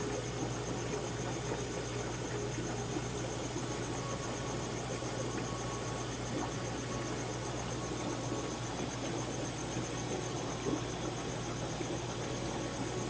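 Steady hum of aquarium filters and air pumps in a fish-store tank room, with a fast, even, high-pitched chirping over it.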